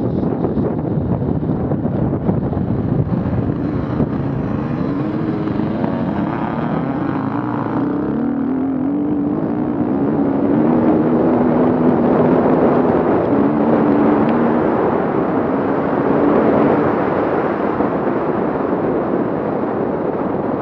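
Off-road vehicle engine running and revving up and down in steps, loudest in the middle, over steady wind noise on the microphone.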